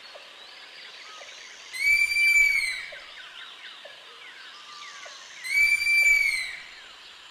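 Sloth calling twice, each a high call of about a second that rises slightly and then falls away, over faint background chirps.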